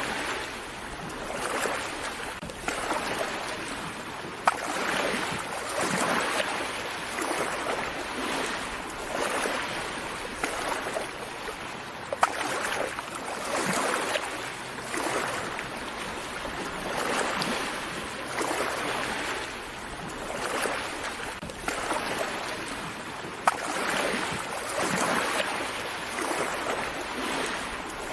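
Gentle sea waves washing onto a beach, the wash swelling and fading every few seconds. Three sharp clicks stand out briefly over it.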